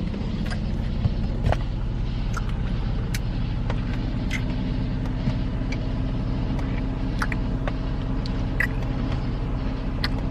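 Steady low mechanical hum, like an idling engine or running machinery, with faint scattered small clicks over it.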